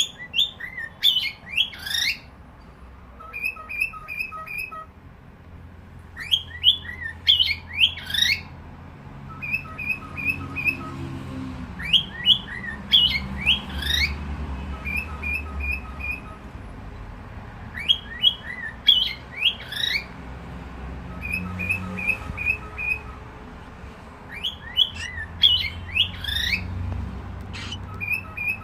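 Cockatiel whistling its song. A phrase of quick rising and falling whistles is followed by a string of four or five short, even pips, and the whole phrase repeats about every six seconds.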